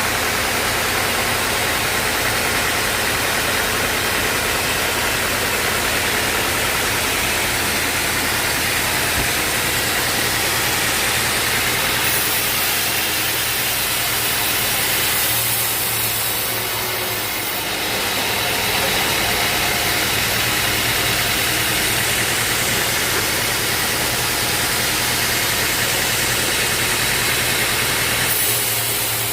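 Sawmill running steadily with its engine and saw going, with a brief dip in level about two-thirds of the way through.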